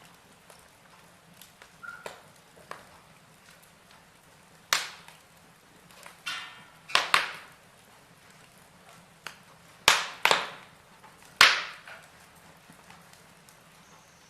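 Log fire in a fireplace crackling: irregular sharp pops and snaps from the burning wood, with a busier run of louder pops from about five to eleven seconds in, over a faint steady background.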